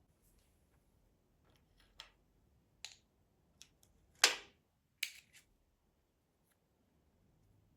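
A series of short, sharp clicks and knocks, about six of them over a few seconds, the loudest a little past the middle, against a quiet room.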